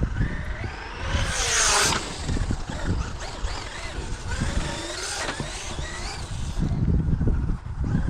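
Traxxas UDR RC trophy truck's brushless electric motor whining, rising and falling in pitch as the throttle goes on and off, with a loud hissing burst about a second in.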